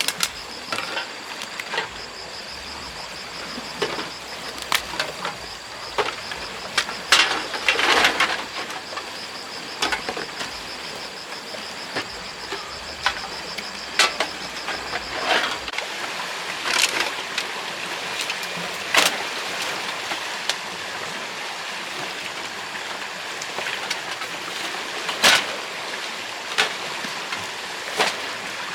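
Scattered knocks and clicks of objects being handled, over a steady rushing background hiss. A faint, steady high tone runs under the first half and stops about halfway through.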